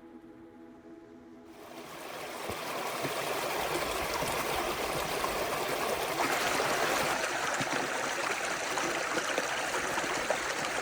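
A creek's flowing water, rising in over the first few seconds and then running steadily, as the tail of background music fades out at the start.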